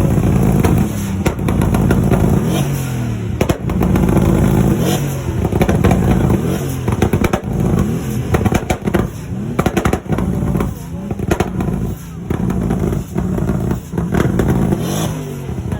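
Engine revved over and over, its pitch climbing and dropping again every second or two, with sharp pops and crackles throughout.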